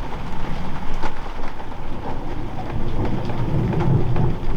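Heavy rain pouring down with a dense patter of drops, and a low rumble swelling about three and a half seconds in.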